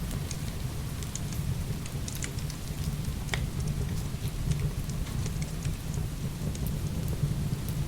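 Heavy rain falling steadily with a deep, even rumble underneath, mixed with scattered small pops and crackles of burning firewood.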